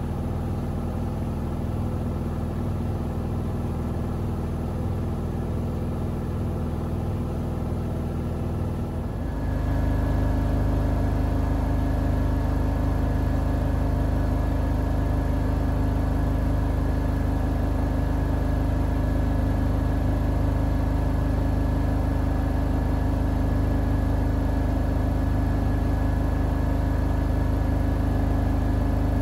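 Siemens iQ700 WG56B2090 front-loading washing machine drum spinning with a steady whirring hum. About nine seconds in it steps up to a higher, louder spin speed and holds there.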